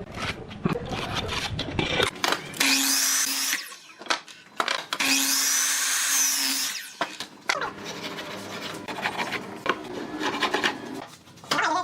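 Handheld power tool running in two short bursts, the first about a second long and the second longer, each with a steady motor hum. Knocks and wood-handling sounds come before, between and after.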